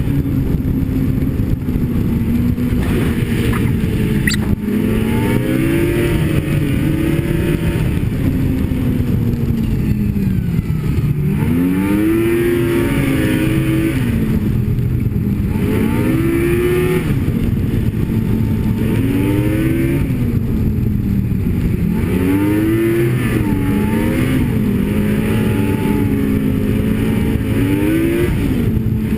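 Snowmobile engine running at speed, its pitch rising and falling over and over as the throttle is opened and eased, with a steady drone in between. A brief sharp click about four and a half seconds in.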